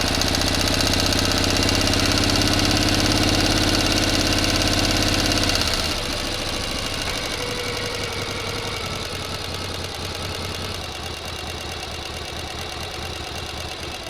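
Motor running steadily. About six seconds in it turns quieter and loses its deeper hum, then runs on, easing off a little toward the end.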